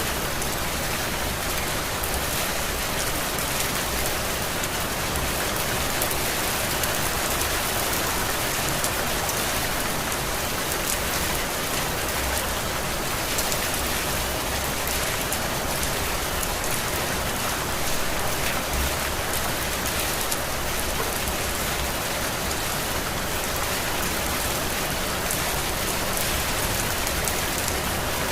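Heavy rain falling steadily: a dense, even hiss of rain, with faint ticks of single drops scattered through it.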